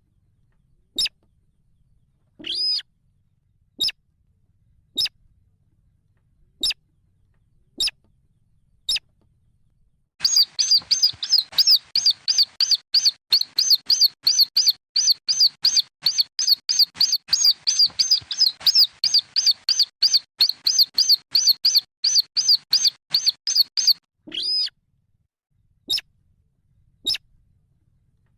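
Sintar (slaty-breasted rail) chicks calling: single high peeps about once a second. About ten seconds in they break into a rapid run of peeps, several a second, lasting about fourteen seconds, then go back to single peeps.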